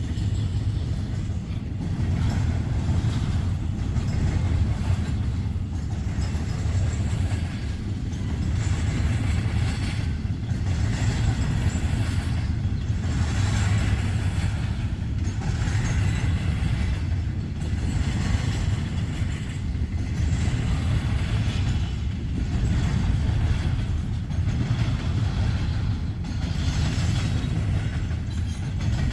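Freight train cars rolling past close by: a steady low rumble of steel wheels on rail, with a rhythmic clatter that swells and fades about every second or two as the wheel sets pass.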